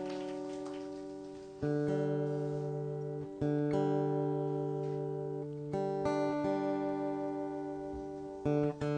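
Acoustic guitar playing the closing chords of a song: each chord is struck and left to ring out and fade, with a new chord every two seconds or so, four in all.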